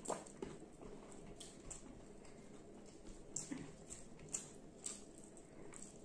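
Close-up eating sounds of people chewing rice and chicken curry: irregular soft, wet mouth clicks and lip smacks, about one or two a second.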